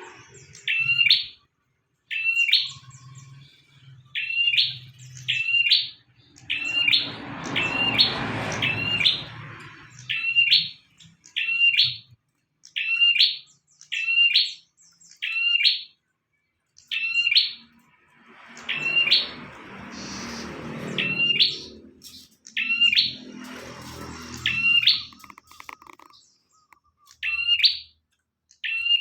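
A prinia (prenjak) singing energetically: sharp high chirps in quick runs of two or three, repeated over and over with short pauses. A low rumbling noise rises and falls behind it three times.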